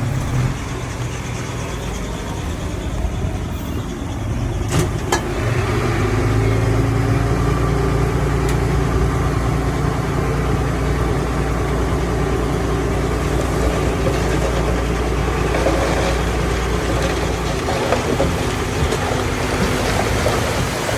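Heavy diesel engine of earthmoving machinery running steadily. A couple of sharp clanks come about five seconds in, and then the engine works harder and stays louder.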